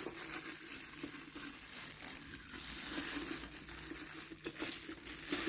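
Packaging rustling and crinkling, with many small crackles, as a new kettle is unwrapped and handled.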